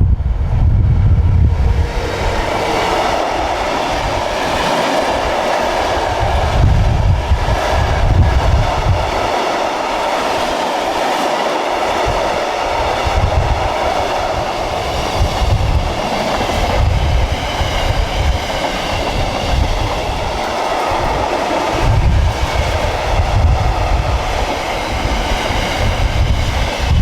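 A diesel-hauled train passing close by, with a steady rolling rumble and wheel noise. Wind buffets the microphone in low gusts.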